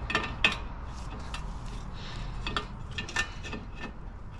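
Hand tool clicking and clinking on metal in irregular strokes while a hard-to-reach bolt is worked loose.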